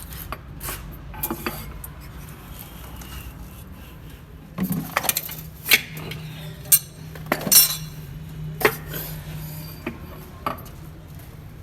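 Metal tools and engine parts clinking and knocking against each other in irregular, separate strikes, with a low steady hum in the middle.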